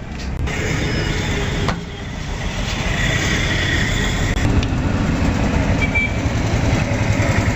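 Bajaj Discover 135's single-cylinder engine running steadily, a dense low pulsing, with a sharp click about a second and a half in.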